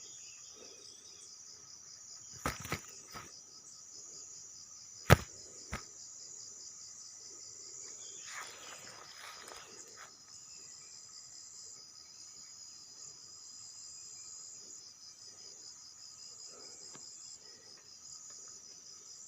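Steady high-pitched chirring of forest insects. A few sharp knocks come through it: two about two and a half seconds in, a louder one about five seconds in, and a brief rustling noise around nine seconds.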